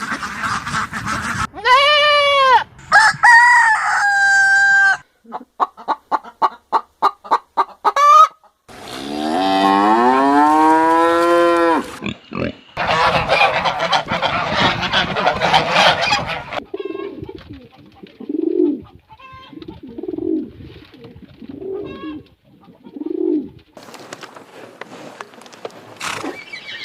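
A run of farmyard bird calls, mostly chickens: a rooster crowing, a quick string of short clucks, and another long crow. After that comes a noisy stretch, then a series of low calls about once a second.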